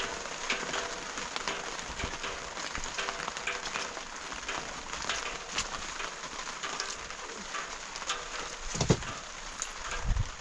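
Steady rain pattering on a surface, a dense spread of small ticks, with a single low thump about nine seconds in.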